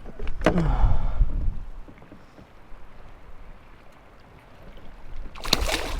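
Water splashing and sloshing against the side of a kayak while a striped bass is handled: a splashy stretch in the first second and a half, a lull, then a sudden loud splash near the end.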